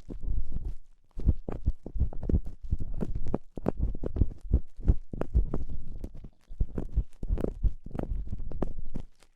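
Close-up ear-cleaning sounds: an ear-cleaning tool scratching and rubbing in an ear, in quick irregular scrapes and clicks with dull low thumps, broken by a few short pauses.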